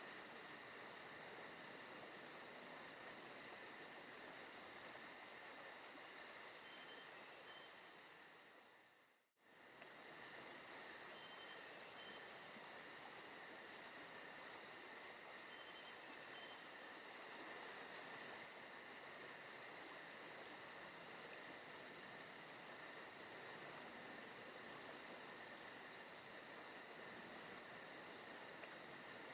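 Forest ambience of crickets and insects chirring steadily in several high-pitched bands, with a fast pulsing trill at the top. About nine seconds in, it fades out to near silence and comes straight back.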